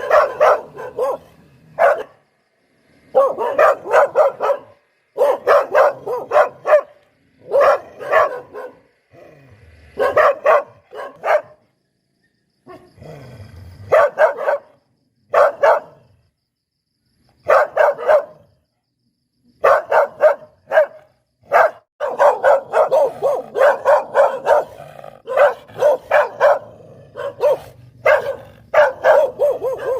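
Poodle barking in quick runs of short barks, several a second, with short silent gaps between the runs.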